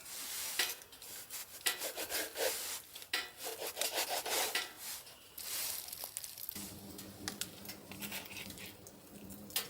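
Irregular rubbing and scraping strokes on wood. About two-thirds of the way in they stop and a steady low hum begins.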